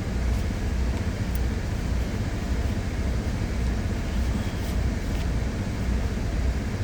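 A semi truck's diesel engine idling: a steady low rumble with a slow, even throb.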